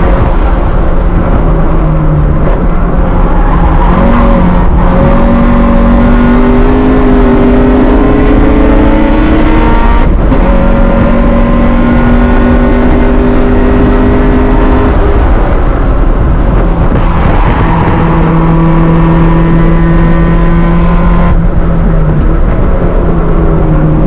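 Honda CRX's stock B16A 1.6-litre DOHC four-cylinder running hard at track pace, loud. The engine note climbs slowly and steps to a new pitch every few seconds at the gear changes.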